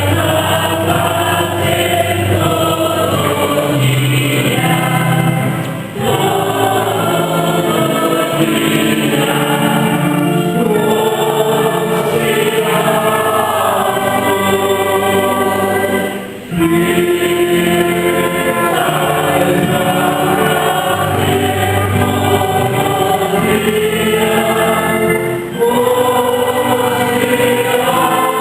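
Church singing group performing a hymn together, with brief breaks between phrases about every ten seconds.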